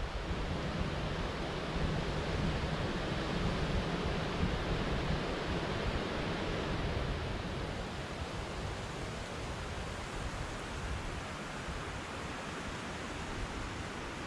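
Steady white-noise rush, an even hiss with no distinct events, easing slightly after about eight seconds.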